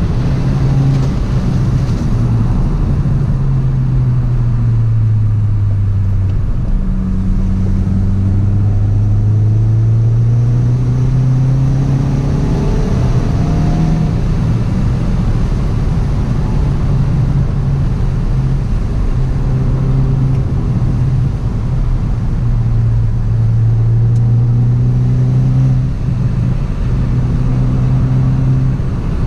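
Hyundai i20 N's turbocharged 1.6-litre four-cylinder engine heard from inside the cabin, driven in third gear through bends. Its note falls slowly as the throttle eases and climbs again as it pulls, several times over.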